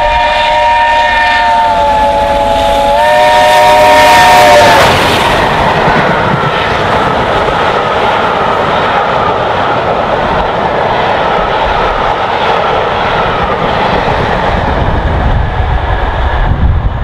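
Chime whistle of BR Standard 8P steam locomotive 71000 "Duke of Gloucester" sounding a loud chord of several notes, which dips briefly in pitch and cuts off about five seconds in. The train then passes at speed: a steady rush and clatter of the carriages on the rails.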